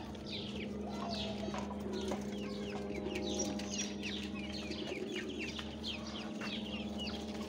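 Young farm birds peeping over and over in short, high, falling chirps, several a second, mixed with chicken clucking. A steady low hum runs underneath.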